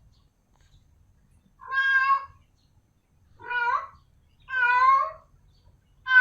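Female cat in heat calling for a male: three meows a little over a second apart, each under a second long, with a fourth just beginning at the end.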